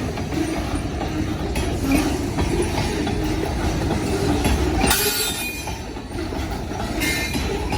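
Freight train cars rolling past on the rails: a steady rumble of wheels on track, with brief high wheel squeals a few times, the loudest about five seconds in.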